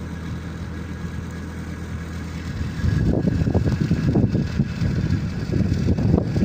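An engine running with a steady low hum. About three seconds in, louder, uneven low rumbling joins it and stays to the end.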